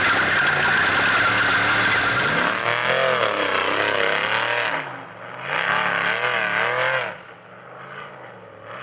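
Off-road trophy truck's engine under hard driving with heavy road noise at first. From about three seconds in, the engine revs rise and fall over and over, and it drops quieter near the end.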